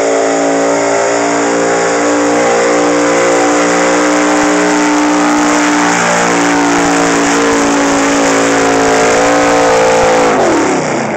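Dodge pulling truck's engine running hard at high revs under load while pulling the sled, its pitch holding steady and creeping slightly upward. About ten and a half seconds in the revs fall away sharply.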